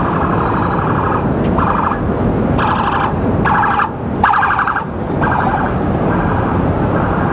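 Police siren sounding in a string of short, fast-warbling blasts over the steady, loud roar of a ruptured underground steam pipe venting.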